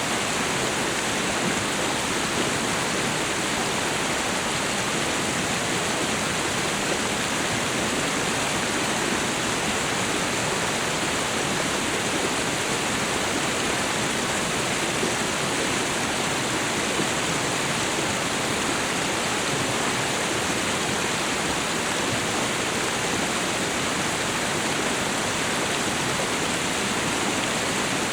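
Waterfall and river water rushing in a steady, unbroken roar.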